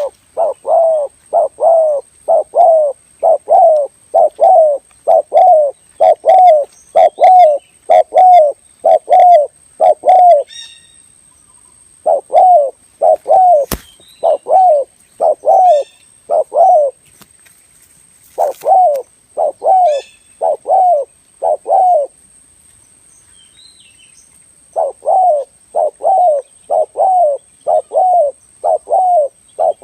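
Spotted dove cooing: a fast, even series of short coos, about two a second, given in four runs with short pauses between them.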